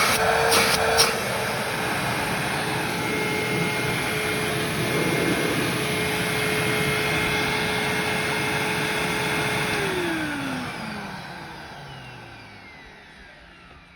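Motor of a 2003 Hoover WindTunnel upright vacuum running at a steady pitch with the flat belt removed, a few sharp clicks in the first second. About ten seconds in it is switched off and winds down, its pitch falling as it fades.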